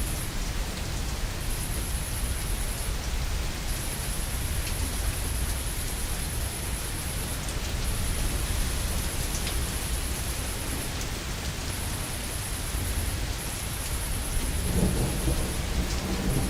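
Steady rain falling, under a constant low rumble of distant thunder that swells near the end.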